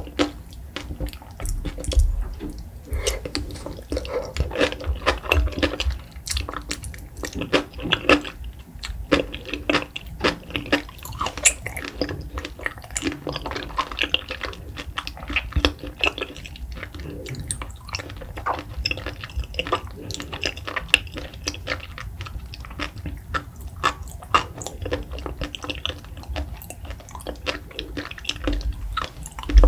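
Close-miked wet chewing of raw salmon sashimi and sea grapes, with many small crisp clicks and moist squishes through the chewing.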